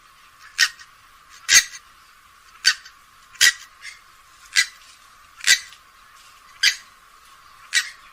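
Grey-headed swamphen calling: short, sharp calls repeated about once a second, eight in all. The sound is thin, with the low end cut away.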